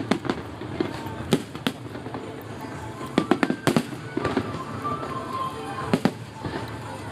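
Fireworks going off in a display: a series of sharp bangs and cracks, bunched in a quick run about three seconds in, with more around six seconds.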